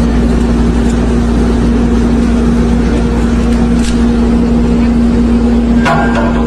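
A heavy vehicle engine running steadily, a loud, constant drone with a low hum. A short, sharp sound cuts in near the end.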